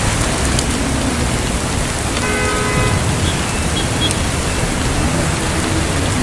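Heavy rain pouring steadily, a constant even hiss. A little over two seconds in, a short pitched tone sounds briefly over the rain.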